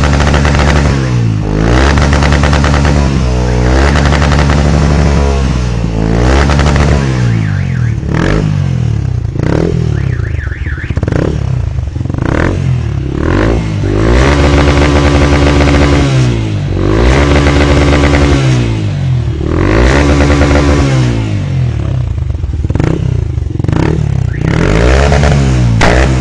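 Small motorcycle engine revved over and over up to its rev limiter: the pitch climbs, holds steady at the cutoff for a second or two, then drops back before climbing again.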